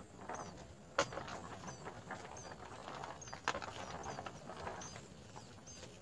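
A small bird scratching and rustling in a nest of dry grass, with two sharp taps, one about a second in and one midway. Faint, high, short chirps repeat throughout.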